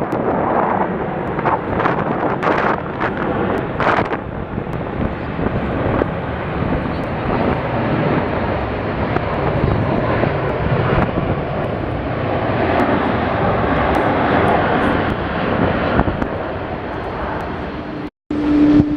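Four-engined Airbus A380 jet airliner's engines running as it passes, a continuous loud rushing noise that swells and eases, with wind noise on the microphone in the first few seconds.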